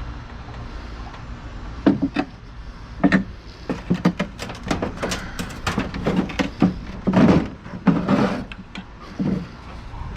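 A run of sharp knocks and rattles, uneven in loudness, starting about two seconds in over a low steady rumble, as of metal being handled and shifted.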